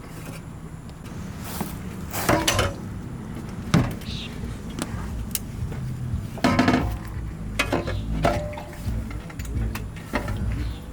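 Metal clanks and knocks from a cut-off exhaust pipe and muffler being handled and worked free, with trapped water splashing out of the pipe. A steady low rumble runs underneath, and there are several sharp clatters, the loudest a few seconds in.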